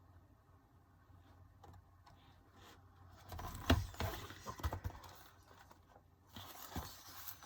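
Album photobook pages being turned and handled: soft paper rustles and small taps starting about three seconds in, the loudest near the middle, then quieter handling.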